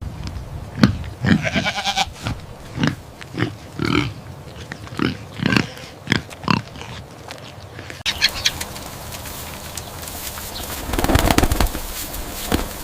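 Farm animal calls: a run of short, rough calls repeating every half second or so. About eight seconds in, the background turns noisier, and a longer, louder call comes near the end.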